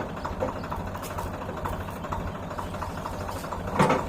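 Swaraj 744 FE tractor's three-cylinder diesel engine running steadily at low speed, with one sharp knock near the end.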